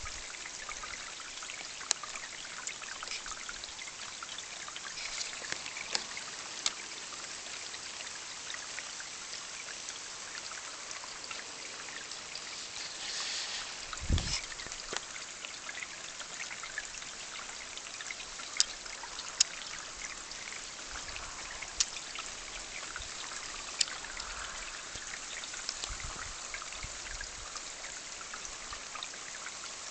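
Steady rain with drops pattering and trickling water, sharp individual drips landing at scattered moments. The rain swells briefly just before halfway, and a single low thump comes about fourteen seconds in.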